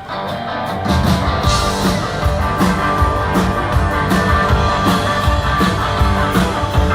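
Live band playing the instrumental intro of an upbeat rock-and-roll song: guitar, with bass and drums coming in about a second in.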